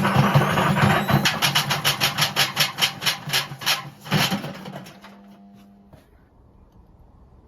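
Washing machine motor running on a speed controller with a steady hum and rapid rhythmic knocking, several knocks a second. It cuts off about four seconds in, leaving a fainter whine that dies away. The drum's spider is broken.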